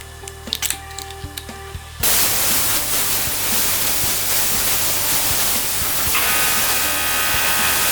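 A loud, steady spraying hiss starts suddenly about two seconds in and runs on evenly over background music.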